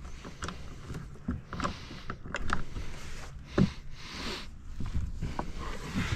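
Oars being pulled through the water by someone rowing a small boat. There is a swishing splash on each stroke, roughly every two and a half seconds, with scattered knocks and clicks in between.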